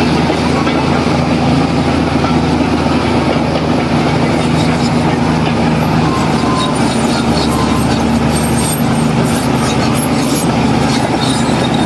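Heavy diesel engine of an earthmoving machine running steadily under load. High metallic squeaks and clinks start about four seconds in.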